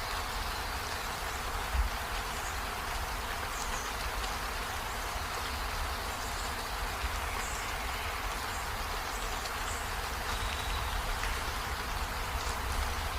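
Steady rain falling, an even hiss with a low rumble underneath, a few faint high chirps here and there and one dull thump about two seconds in.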